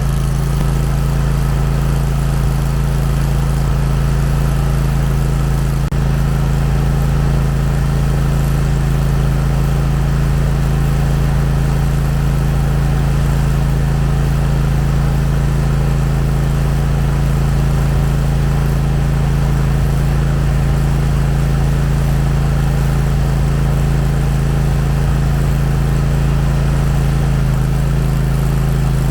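John Deere ride-on mower engine running steadily at idle after a cold start in deep frost, warming up with the choke left on.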